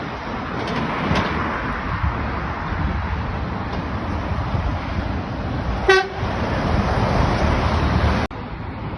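Steady traffic noise from vehicles passing on a busy road, with one short vehicle horn toot about six seconds in.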